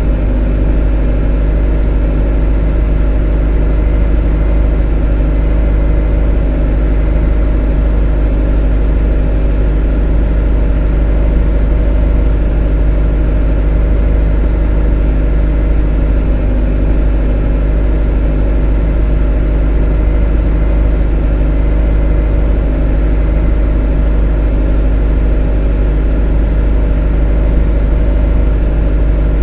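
A motor running steadily at constant speed: an unchanging deep rumble with a steady hum of several tones over it.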